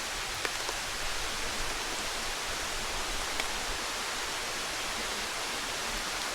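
Steady, even rushing noise of rainforest ambience, with a couple of faint ticks about half a second and three and a half seconds in.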